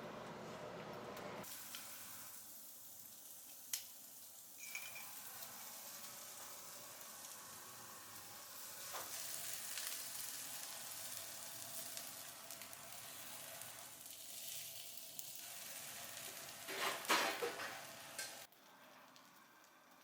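Food sizzling and frying with a steady hiss, broken by a sharp click about four seconds in and a louder burst of clatter near the end.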